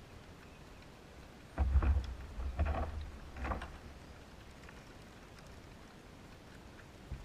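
Canoe paddle strokes splashing in the water, three in a row about a second apart, each with a low rumble.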